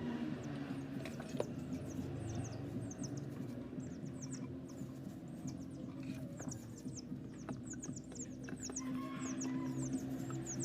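Small birds chirping: quick series of short, high, downward notes again and again, over a low steady hum.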